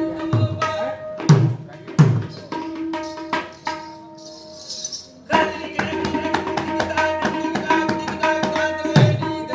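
Mridanga drumming with quick sharp strokes and a few deep bass strokes that drop in pitch, over steady ringing and clinking of hand cymbals. The playing thins out to a brief lull a little before halfway, then picks up again.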